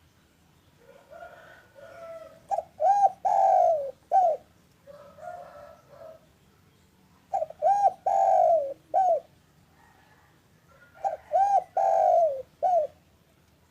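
Spotted dove (derkuku) cooing in three phrases about four seconds apart. Each phrase opens with a few soft low notes, then loud coos: two short ones, one longer one, and a short final coo.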